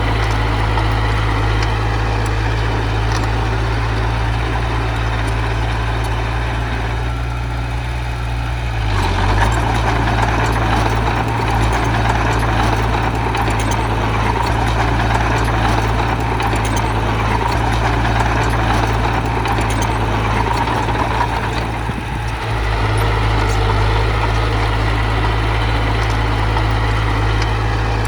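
Diesel engine of heavy earthmoving machinery running steadily. It works harder, with a fuller mid-range sound, from about nine seconds in until a brief dip about twenty-two seconds in.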